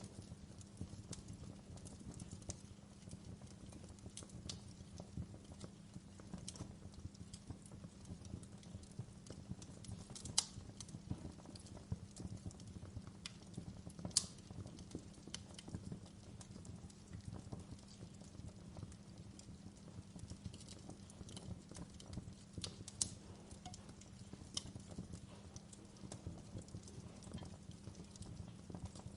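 Wood fire crackling in a fireplace: a soft steady rustle of flames with scattered irregular pops and snaps, two sharper pops at about ten and fourteen seconds.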